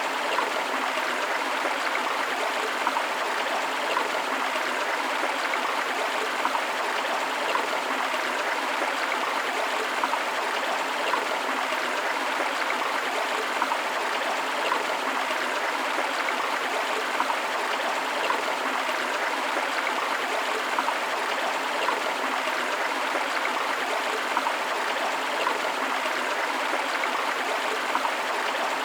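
A forest stream flowing over rocks: steady rushing and babbling water with small, frequent splashes.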